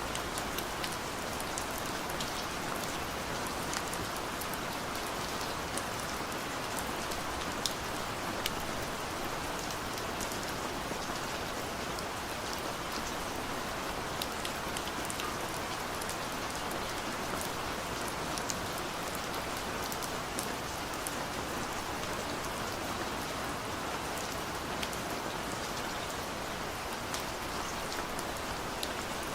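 Heavy rain pouring steadily, a dense even hiss with many sharp ticks of single drops striking a surface.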